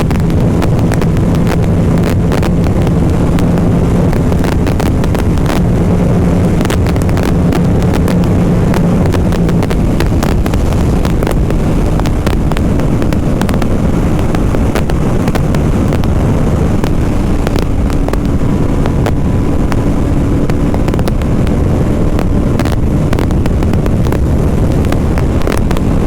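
BMW G 310 RR's single-cylinder engine running steadily under heavy wind rush and buffeting on a helmet-mounted microphone while riding. The engine note changes about ten seconds in.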